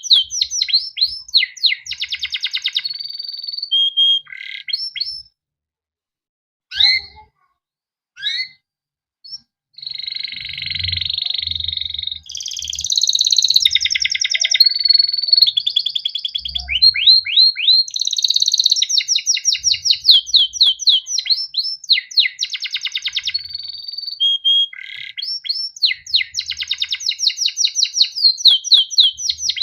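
Male canary singing: runs of fast, downward-sweeping chirps, then a pause of several seconds broken by a few lone notes, then a long rolling trill before the chirping runs return.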